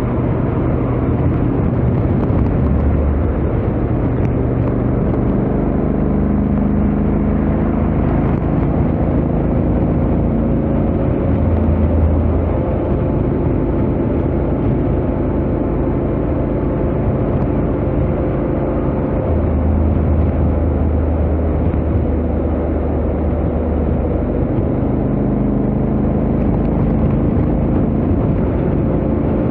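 Honda X-ADV 750's parallel-twin engine and stock exhaust running steadily at highway speed, its note shifting a little in pitch every few seconds, over a rush of wind and road noise.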